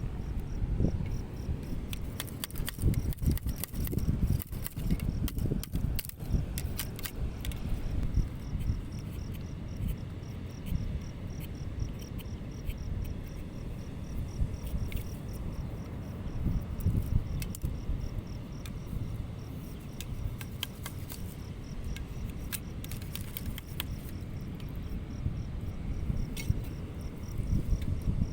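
A cricket chirping in a rapid, even pulse, starting about a third of the way in, over a constant low rumble. Scattered short clicks and knocks in the first few seconds.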